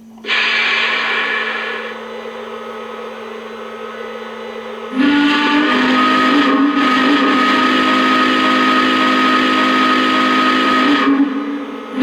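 Lionel Legacy 4-8-4 Northern model locomotive's onboard sound system playing its startup sequence through the model's small speaker. A burst of steam hiss comes first and eases off, then about five seconds in a loud steam whistle blows steadily for about six seconds, all over a steady low hum.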